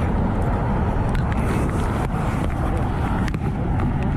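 Motorcycle running on the road as it is ridden: a steady, dense low rumble.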